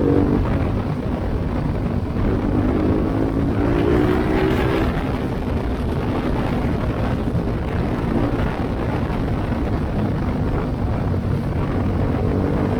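BMW G310GS single-cylinder engine running through an Akrapovič exhaust with the silencer insert removed, under a steady rush of riding noise. The engine note comes up and rises under throttle about two and a half seconds in, and again near the end.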